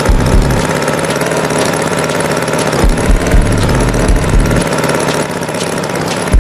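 Tractor engine running steadily at idle, a sound effect with occasional low thuds.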